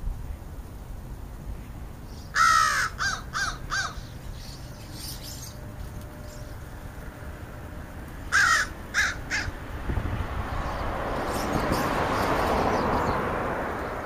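American crows cawing: a run of four caws about two seconds in, fainter calls after, and three more caws a little past the middle. In the second half a rushing noise swells and fades.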